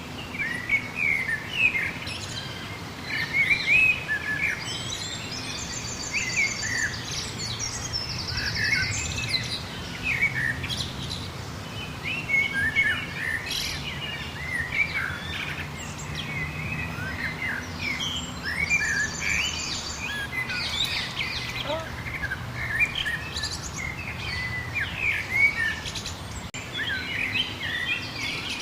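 Several birds chirping and singing at once, a busy chorus of short quick notes. A fast, high trill comes in about six seconds in and again near twenty seconds.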